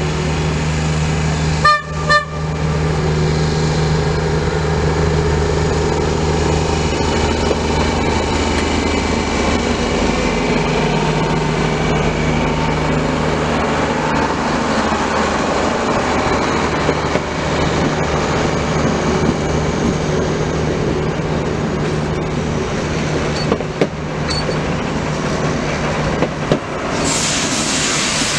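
Passenger train rolling past close by, with a steady low hum and rumble from the coaches. Two short horn toots sound about two seconds in, and a burst of hiss comes near the end.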